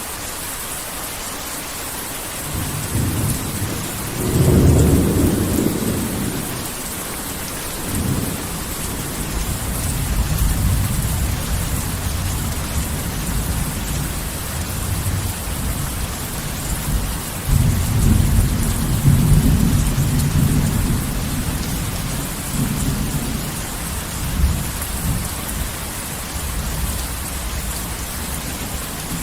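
Heavy rain falling steadily, with thunder. A clap of thunder builds a few seconds in and peaks soon after, then long low rumbling rolls on, swelling again past the middle.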